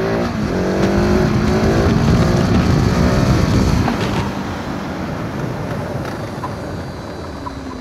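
KTM 690 SMC R single-cylinder engine pulling under throttle, its pitch rising slightly for about three seconds. It then drops away about four seconds in, leaving wind and tyre noise as the bike rolls on.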